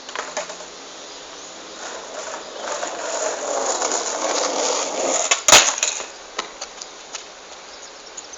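Skateboard wheels rolling, growing louder, then one sharp clack of the board striking the ground about five and a half seconds in, with a few lighter knocks after it.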